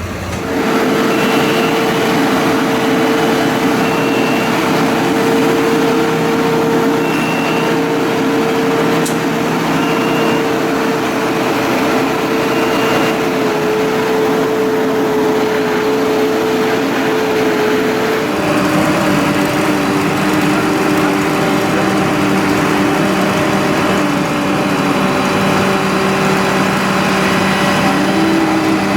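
A fire brigade turntable ladder truck's engine runs steadily at raised revs, as it does to drive the ladder's hydraulics. Its pitch shifts abruptly about two-thirds of the way through. A few short high beeps sound in the first half.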